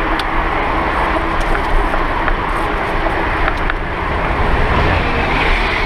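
Wind rushing over the microphone of a bicycle rider on the move, with a steady low rumble and a few light clicks.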